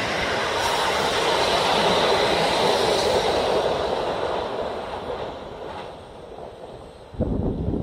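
A train passing: a steady rush of wheel and rail noise that swells and then fades away over the last few seconds. Near the end a sudden low rumble cuts in.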